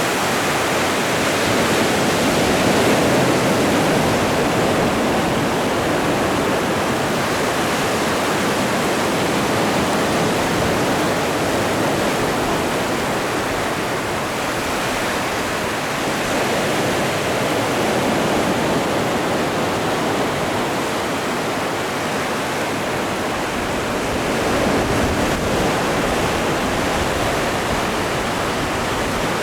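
Atlantic Ocean surf: a steady, continuous rush of breaking and washing waves, swelling slightly every several seconds.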